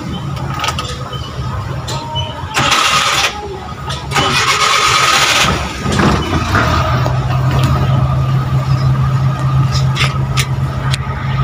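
Van's engine cranked by the starter in two short bursts, catching about six seconds in and settling into a steady idle.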